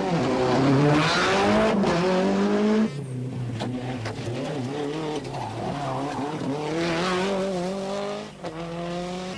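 Nissan Pulsar GTI-R rally car's turbocharged four-cylinder engine pulling hard: the pitch climbs for about three seconds, drops sharply at a gear change, climbs again, and breaks once more near the end at another shift.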